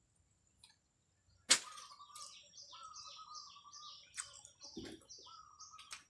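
Birds calling outdoors: a rapid run of short falling chirps, about three a second, over a held whistle-like tone, starting with a sharp click about a second and a half in. There is a soft low thud near the end.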